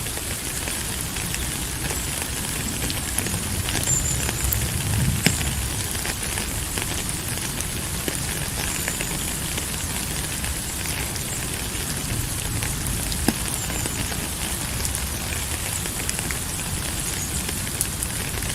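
Steady rain falling, with many small drop ticks and patters on surfaces over a low rumble.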